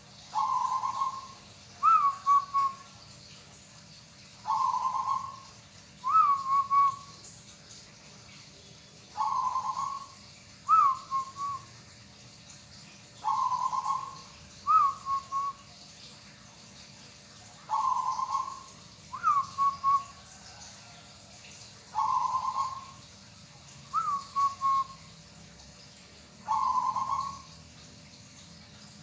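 Zebra dove (local perkutut) cooing: a short rough coo followed by a higher rising-and-falling note and a few quick clipped notes, the phrase repeated about every four seconds, seven times.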